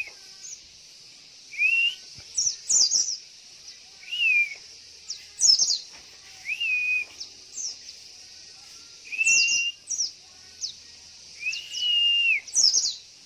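White-eyes (pleci) calling. A clear whistled note rises and then holds, repeated about five times, with quick high chirps in between, over a steady high hiss.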